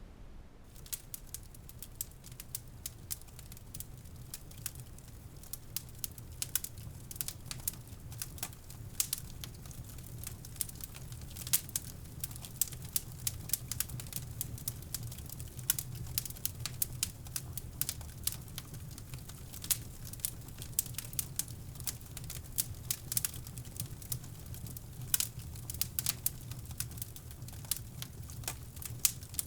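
Wood fire crackling in a fireplace: dense, irregular snaps and pops that start just under a second in, over a steady low rushing brown-noise bed.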